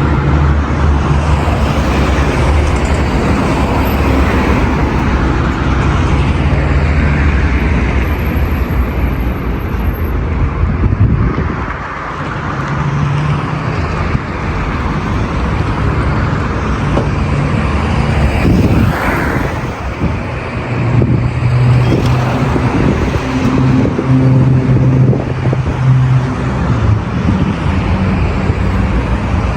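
Heavy road traffic on a busy city boulevard: a steady wash of car engines and tyre noise, with vehicles passing close by one after another.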